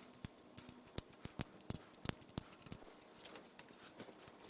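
Faint, irregular metal clicks and light taps of hand tools and parts while the hydraulic valve lifters are being pulled from a small-block Vortec V8's lifter valley.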